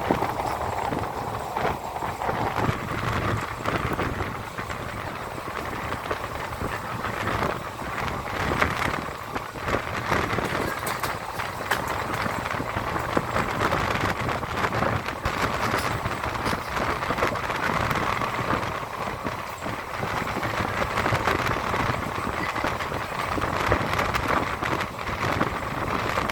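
A train running along the track: a steady rushing clatter of wheels on rails, broken by frequent short clacks.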